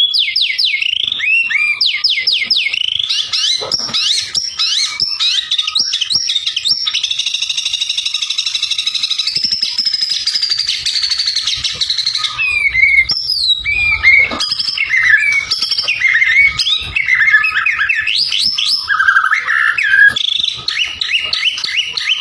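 White-rumped shama (murai batu) singing a loud, varied song: fast runs of repeated sweeping whistles, a long buzzy trill in the middle, then more varied whistled phrases.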